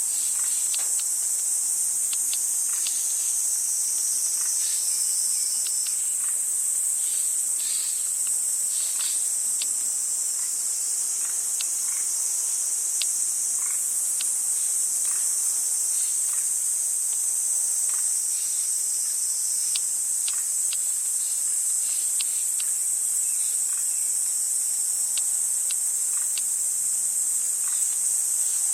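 Steady high-pitched chorus of insects, crickets or cicadas, with scattered short ticks throughout.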